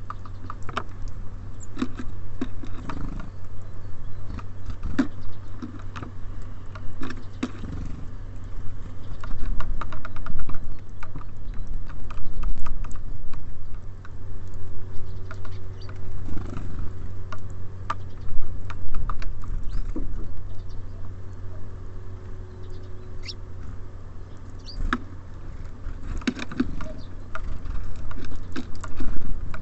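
Small birds pecking and tapping at seed in a bird feeder: irregular sharp taps and clicks, sometimes in quick runs, over a steady low rumble.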